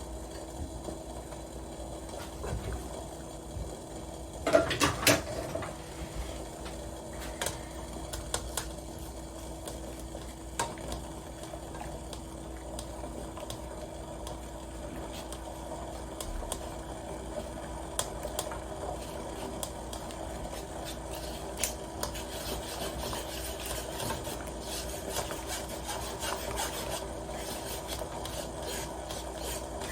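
Kitchen food-prep sounds: continuous scraping and rubbing with scattered light clicks and knocks, a louder clatter about five seconds in, over a steady low hum.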